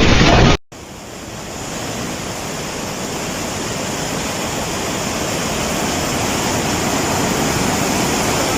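Rushing floodwater: a steady noisy whoosh of flowing water that slowly grows louder, starting after an abrupt cut a little over half a second in.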